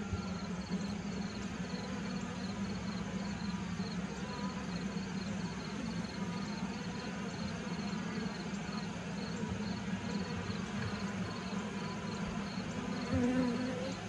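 A colony of honeybees buzzing steadily from an open horizontal hive, a low, even drone. A faint high chirp repeats at a regular pace behind it.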